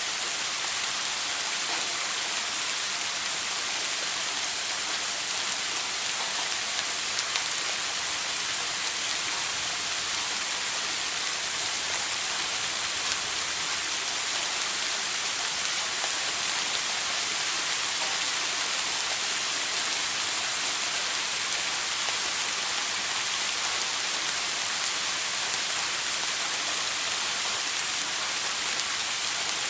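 Shower spray falling steadily, an even hiss of water with faint droplet patter.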